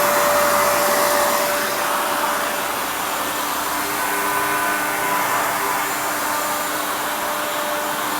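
Wet-and-dry vacuum cleaner running steadily, its floor head sucking up water poured on the floor. The motor's whine changes pitch a few seconds in.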